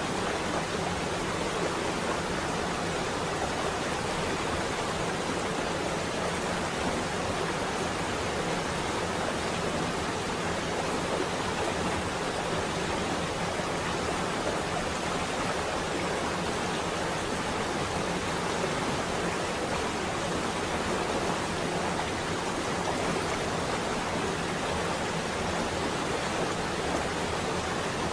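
Steady rain on a window, an even hiss with no thunderclap or other distinct event.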